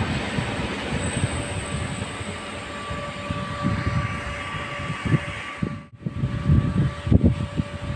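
An EN57 electric multiple unit running out of the station, its steady rumble and hiss slowly thinning as the cars go past. About six seconds in the sound cuts off sharply, followed by gusty low rumbles of wind on the microphone under a steady hum.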